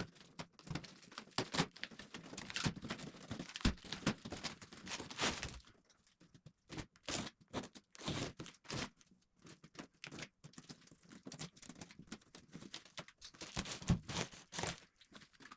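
A cardboard shipping box being torn open: a dense stretch of tearing and rustling for the first five or six seconds, then scattered knocks and rustles.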